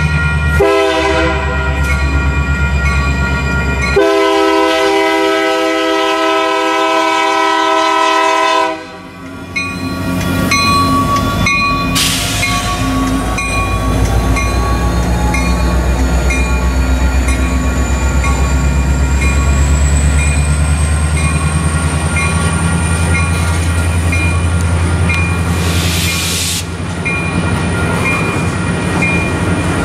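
Union Pacific intermodal freight train sounding its air horn for a grade crossing: a few shorter blasts, then a long one that cuts off about nine seconds in. Its diesel locomotives then rumble past over the steady dinging of the crossing bell, and double-stack container cars roll by after them.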